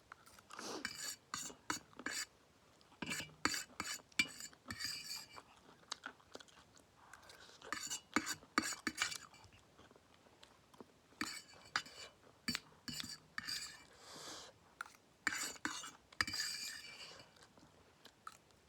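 Close-miked eating: utensils clinking and scraping against a dish, and chewing of spicy instant noodles mixed with crunchy peanuts, in short irregular bursts.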